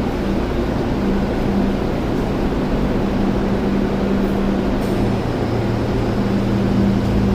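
Car engine idling, a steady low hum with a constant tone; a lower hum joins about five seconds in.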